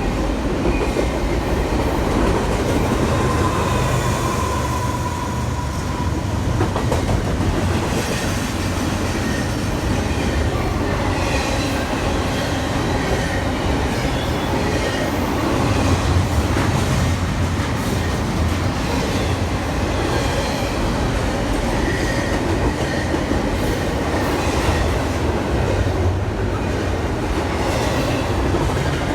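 Railroad cars rolling past on the track with a steady, loud clattering rumble of wheels on rail, and faint brief wheel squeals.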